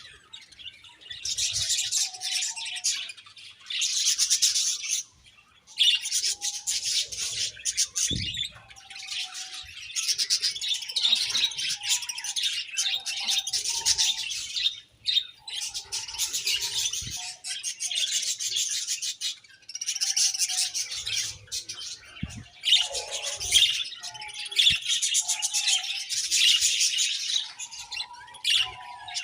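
A group of budgerigars chattering and warbling, in dense bursts of a second or two with short pauses between, and some lower calls mixed in.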